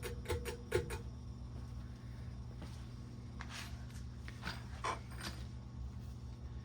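1996 Hampton Bay Gazebo ceiling fan running at medium speed, its motor giving a steady low hum. A quick run of sharp clicks in the first second, with a few soft rustles about halfway through.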